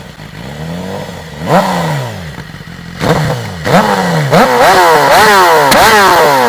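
2014 BMW S1000RR's inline-four engine, fitted with a Taylormade full exhaust system, being revved with throttle blips: a few slow rises and falls in pitch, then from about three seconds in quick repeated revs, about two a second, getting louder.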